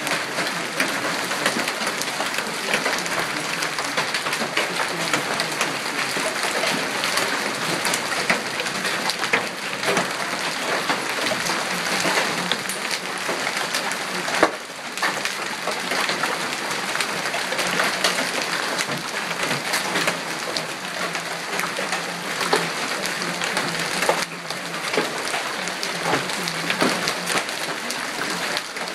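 Hail falling: a dense, steady patter of hailstones striking surfaces, with many sharp individual hits standing out.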